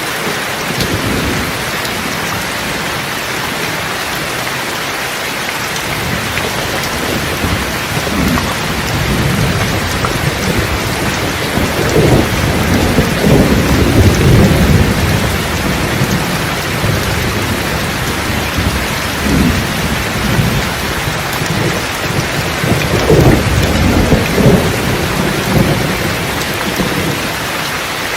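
Steady rain hissing, with thunder rumbling low underneath. The thunder builds about a third of the way in and swells loudest around the middle and again near the end.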